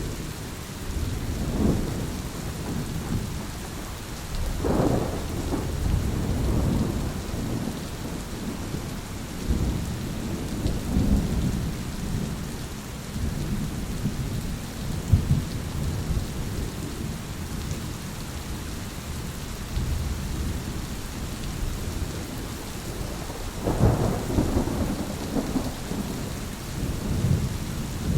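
Thunderstorm: steady rain with thunder rumbling throughout, and louder peals about five seconds in and again near the end.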